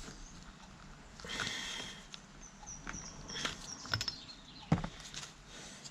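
Small clicks, a brief scrape and knocks of hydraulic pump parts being handled and fitted on the bench, with one sharp knock near the end.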